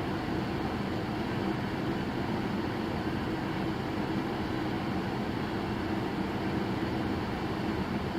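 Steady road and engine noise of a moving car, heard from inside the vehicle.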